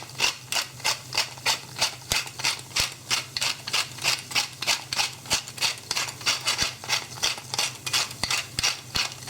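Pepper mill grinding black pepper, a long even run of crisp clicks about four a second, over a low steady hum.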